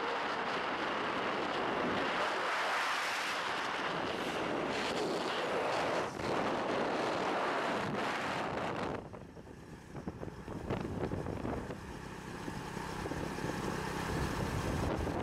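Wind buffeting the microphone while riding a small motorcycle, with the bike's engine and road noise underneath. About nine seconds in the wind noise drops suddenly, leaving a lower engine hum.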